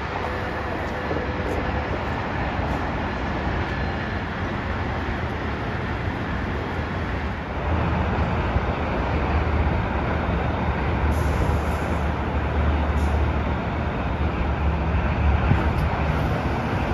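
Amtrak Pacific Surfliner passenger train at the platform, giving a steady rumble as its cars roll slowly by. About seven and a half seconds in, the sound jumps to a louder, deeper steady rumble as the train stands.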